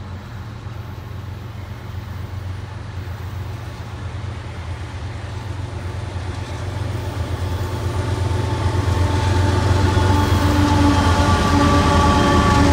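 Three diesel-electric freight locomotives approaching, their engines' low drone growing steadily louder as the train nears; a whine joins in over the last few seconds as the lead unit comes alongside.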